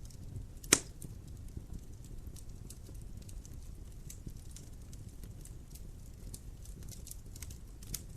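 Wood fire in a fireplace crackling, with scattered small pops over a low steady rumble; one loud snap about a second in and a smaller one near the end.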